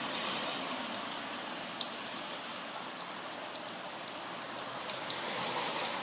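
Steady hiss of rain and running floodwater, with scattered sharp drip ticks.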